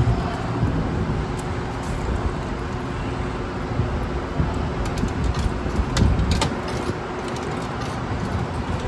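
City street traffic: a steady wash of passing cars and engine noise.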